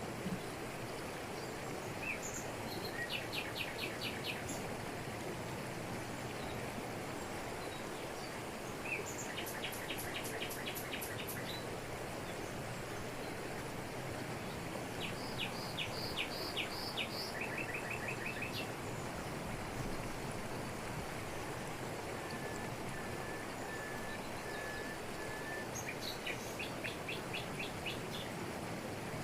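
Steady rush of a waterfall falling over rocks, with forest birds calling over it in short rapid trills about four times, and a run of short evenly spaced notes near the end.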